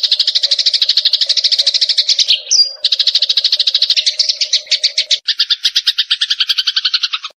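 Recorded Eurasian tree sparrow lure call: a rapid, even run of chirps, about eight a second. It is broken once by a short high whistle, changes to a lower, fuller chirp after about five seconds, and cuts off abruptly near the end.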